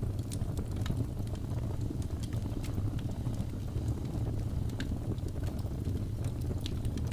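Wood fire burning: a steady low rumble of flames with frequent small, irregular crackles and pops.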